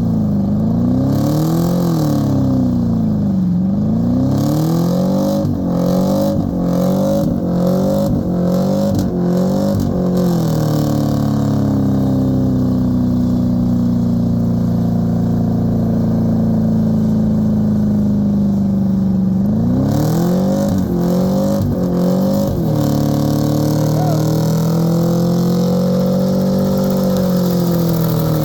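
Truck engine being revved. The pitch swings up and down every couple of seconds, then gives a run of quick blips. About halfway through it is held at a steady high speed for several seconds, then there are more quick blips and slower swells up and down.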